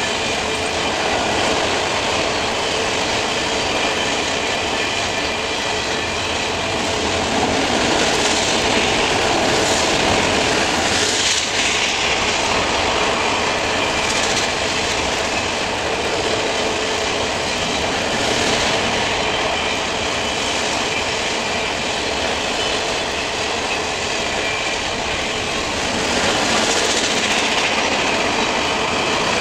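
Freight train of autorack cars rolling past: a steady rumble and clatter of steel wheels on the rails, with a thin high whine running through it. It swells louder about a third of the way through and again near the end.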